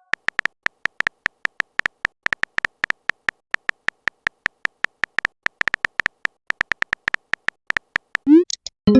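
Phone keyboard typing sound effect: a rapid, uneven run of short clicks, about five or six a second, followed near the end by a short rising swoosh.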